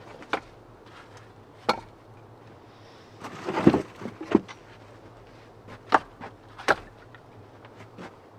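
Irregular wooden knocks and clunks of firewood logs being handled, with a louder cluster of knocks a little past three seconds in.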